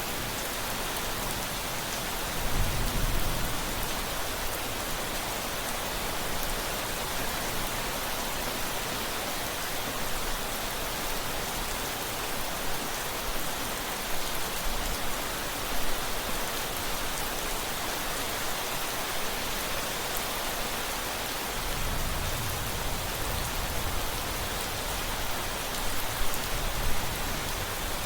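Steady, even hiss of heavy rain, with low rumbles of distant thunder about two and a half seconds in and again for the last several seconds.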